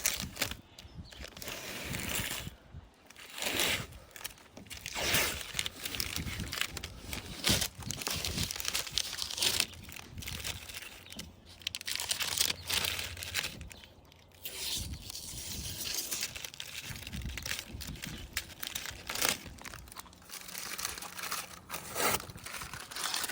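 Masking tape being peeled off painted truck bodywork and crumpled up, in irregular bursts of tearing and crinkling.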